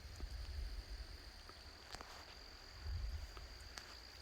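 Insects trilling steadily at one high pitch, with a low rumble on the microphone and a few faint ticks.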